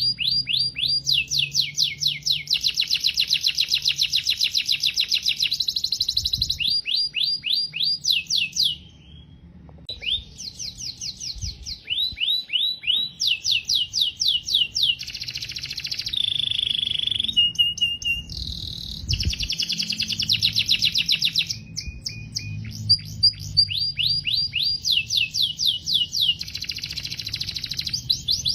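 Domestic canary singing: long rapid trills of repeated falling notes, with a brief break about nine seconds in and a few short held whistles midway.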